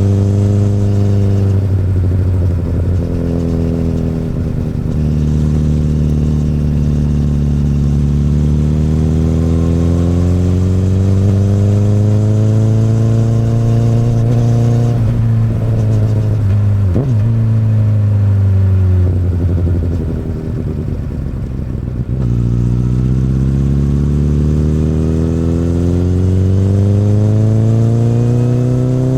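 Akrapovič exhaust of a 2008 Honda CBR1000RR (SC59) inline-four, pulling up through the revs in long rising climbs, with quick drops in pitch at gear changes. About two-thirds through it goes quieter and flat for a few seconds, off the throttle, then pulls up again.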